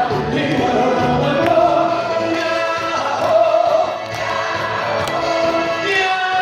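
Many voices singing a song together in unison, over amplified backing music with a light beat.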